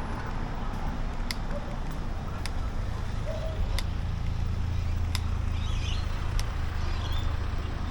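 Steady low rumble of street traffic and riding noise, with a sharp tick about every second and a quarter.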